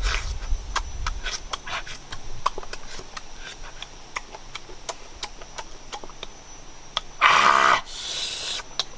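Scattered sharp clicks and crackles over a steady high tone, then two loud rasping scrapes about seven and eight seconds in.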